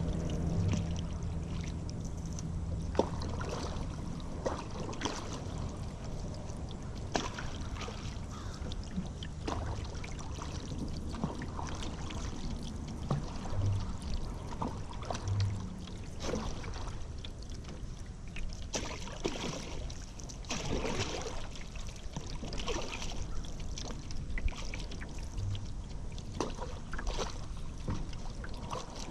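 Paddle strokes in river water: the blade dips and pulls with splashes and dripping at an irregular pace of about one stroke every second or two, over a steady wash of moving water.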